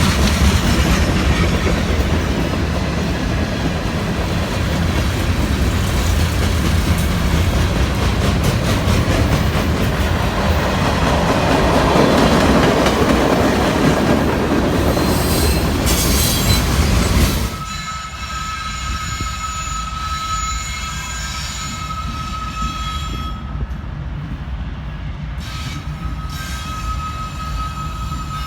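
Freight train passing close by: a loud, steady rumble and rattle of wheels on rail. About two-thirds of the way through the level drops suddenly, and a steady high wheel squeal carries on over a quieter rolling sound.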